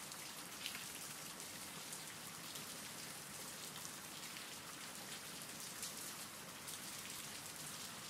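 Faint, steady rain: an even hiss of rainfall with scattered drops pattering on a surface.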